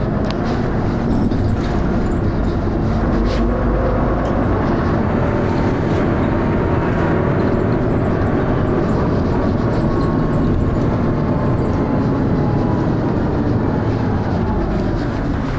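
Dennis Arrow double-decker bus under way, heard from inside: its diesel engine and driveline run loudly with a harsh thrash and a whine that slowly rises and falls in pitch. Short knocks and rattles come through now and then, part of the knocking noise this bus is known for.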